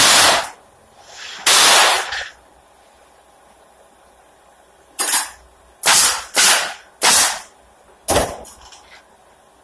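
Pneumatic nail gun firing nails into pallet boards, each shot a sharp bang with a short burst of air. About seven shots, with a pause of a few seconds after the first two, then a quick run of shots.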